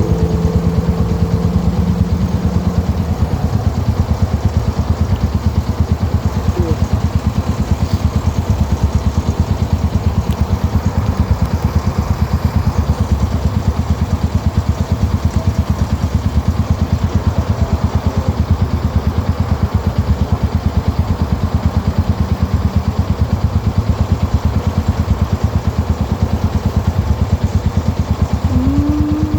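Motorcycle engine running steadily as the bike is ridden, a dense, even beat of exhaust pulses with no letup.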